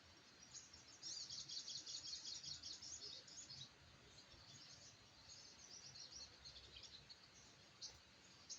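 Faint, high, rapid twittering of a small bird: a fast run of chirps about a second in lasting some two and a half seconds, a weaker run later, and scattered single chips between.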